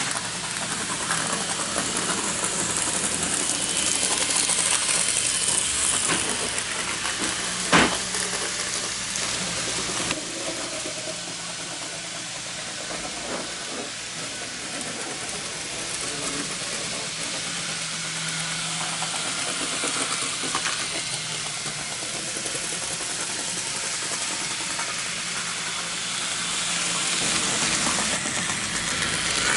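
N-gauge model train running along the layout track: a steady hissing rattle of small wheels and motor with scattered light clicks over the rails, and one sharp, louder click about eight seconds in.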